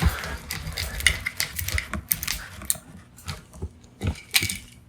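Scissors cutting through a power cord: a run of irregular snips and crunching clicks, loudest at the start, with a second cluster about four seconds in.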